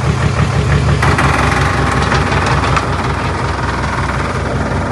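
Heavy diesel engine of earthmoving machinery running steadily, with a rougher, higher-pitched mechanical noise joining in about a second in.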